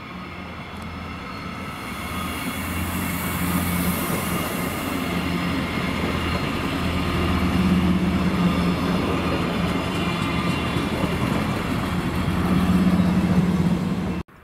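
Two-car NordWestBahn regional train passing close by, its steady low running hum and wheel noise growing louder as it approaches and goes past. The sound cuts off suddenly near the end.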